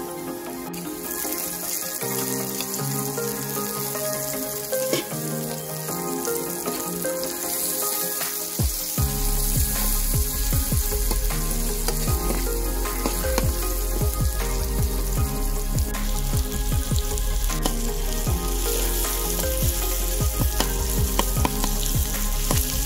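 Egg bhurji (onion, green chilli and egg) sizzling as it fries in a metal kadai, with a spatula stirring and scraping. From about nine seconds in, the spatula clicks often against the pan. Background music plays along.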